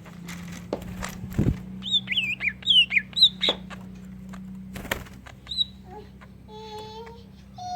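Greater green leafbird (cucak ijo) singing a quick run of short, sharply bending chirps, then a longer held whistled note near the end. Scattered sharp clicks and a steady low hum run underneath.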